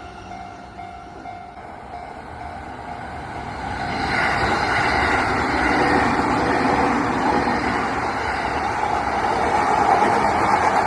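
Electric commuter train passing close by at a level crossing: the running and rail noise builds about four seconds in and stays loud.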